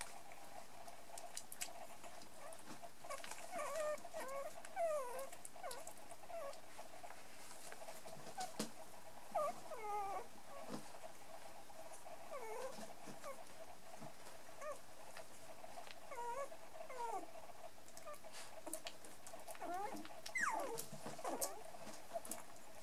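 Young miniature and toy poodle puppies, about three and a half weeks old, whimpering and squeaking in short clusters of high, sliding calls while they play, with small scattered clicks and a faint steady hum underneath.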